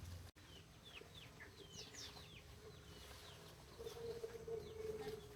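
Chickens calling: a run of short, high, falling peeps, then a longer, lower drawn-out call near the end.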